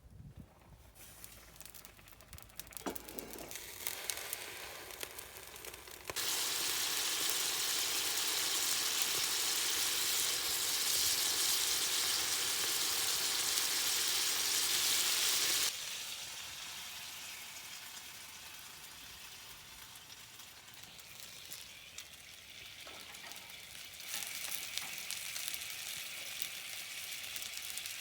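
Gyoza frying in a pan over a campfire, sizzling. About six seconds in the sizzle jumps to a loud, even hiss that lasts about ten seconds and cuts off suddenly, then carries on more quietly.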